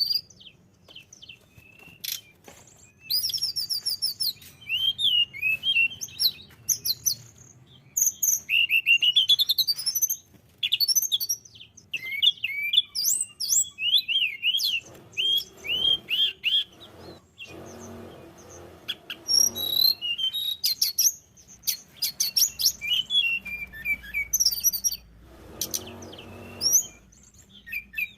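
Tledekan gunung, a blue flycatcher, singing: fast, high-pitched warbling phrases of quick rising and falling notes, broken by short pauses.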